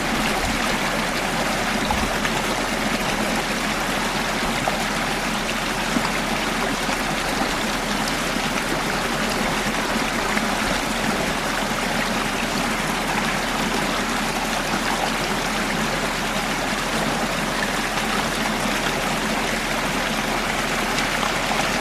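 A wadi stream's running water, flowing and trickling steadily.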